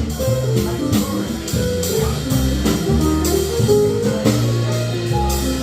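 Jazz trio playing live, with guitar lines over a walking low line and a steady pulse.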